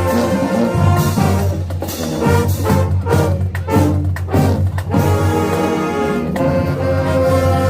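High school marching band brass playing loud, with a heavy low bass line under the horns. A run of short, clipped hits in the middle gives way to held chords.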